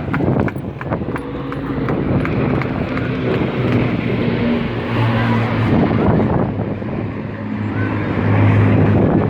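Rolls-Royce Merlin piston engines of WWII propeller aircraft droning overhead, a steady low drone whose pitch drifts slightly up and then down as the aircraft pass.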